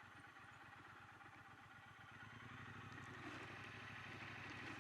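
Triumph Bonneville T120's parallel-twin engine running faintly and steadily, growing a little louder about halfway through.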